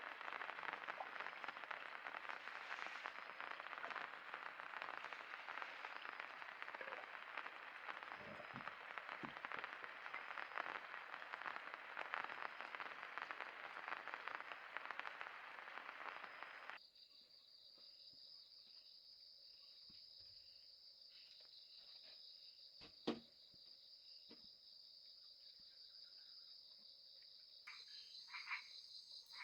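Steady rain falling, then it cuts off suddenly about sixteen seconds in to a steady high chorus of insects and frogs, with one sharp click partway through and a few short frog calls near the end.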